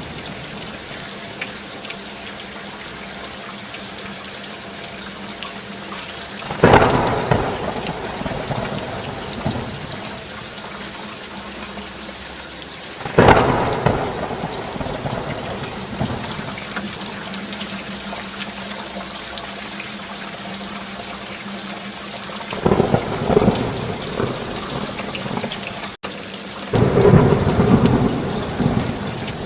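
Steady rainfall with four loud thunderclaps, each striking suddenly and rolling off over a second or two, the last two close together near the end. The sound cuts out for an instant just before the last clap.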